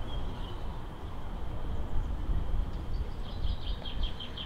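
A small bird chirping, with a quick run of chirps in the last second and a half, over a low, uneven rumble.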